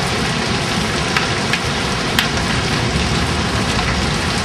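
Heavy rain pouring steadily onto the ground, with a few sharp taps about a second, a second and a half and two seconds in.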